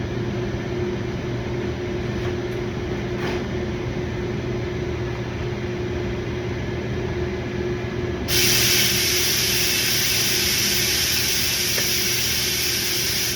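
A steady low mechanical hum, then about eight seconds in a loud, even hiss starts suddenly, runs for about five seconds and cuts off abruptly.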